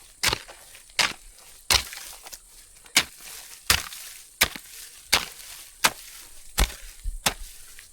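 Repeated chopping blows, about ten sharp strikes evenly spaced a little under a second apart, each with a short tail.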